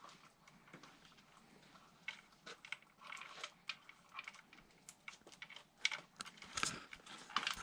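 Faint, irregular light clicks and taps, a few a second, growing a little louder near the end.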